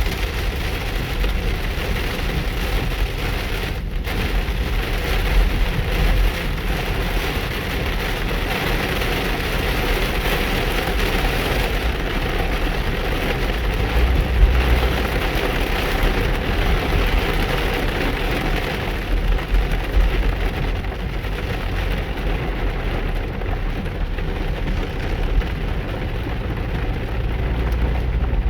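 Heavy rain pouring steadily, over the low rumble of a car driving through it.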